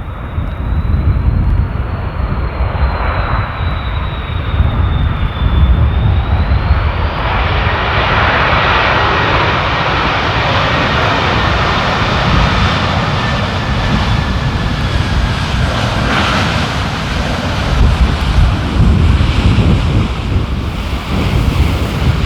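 Jet airliner on approach passing close by: its engine noise builds to a peak about eight to twelve seconds in and then eases, with a high engine whine falling slowly in pitch. Gusty wind buffets the microphone underneath.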